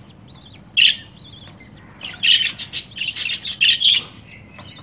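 Budgerigars chirping: a short call about a second in, then a quick run of high chirps for about two seconds.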